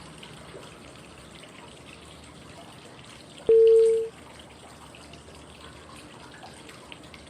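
Steady flowing-water white noise, with one short, clear tone about halfway through, lasting about half a second. The tone is a breathing cue marking the next 5-second phase of 5-5-5 breathing.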